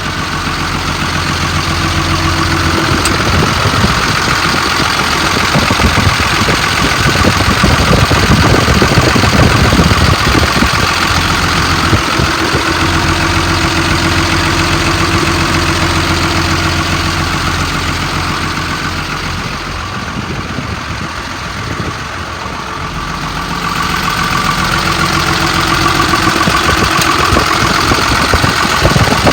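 5.9-litre Cummins inline-six turbo diesel in a Sterling M8500 bucket truck idling steadily, heard up close at the engine, with a brief quieter stretch about twenty seconds in. The engine is fully warmed up and idles smooth.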